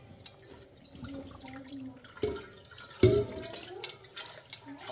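Water dripping and splashing with scattered knocks, and a loud sharp clatter about three seconds in that rings briefly.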